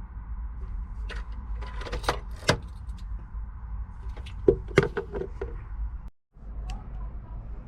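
A few sharp knocks and clunks, loudest about two seconds and five seconds in, over a steady low hum. The sound drops out for a moment about six seconds in.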